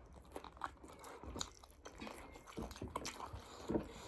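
Chewing and mouth sounds of people eating a meal, in a string of short, irregular clicks and soft smacks, a few of them louder.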